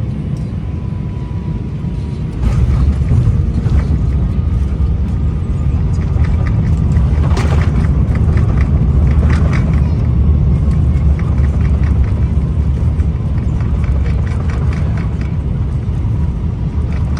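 Loud, steady low rumble of a vehicle in motion that jumps louder about two seconds in, with light rattles and clicks over it.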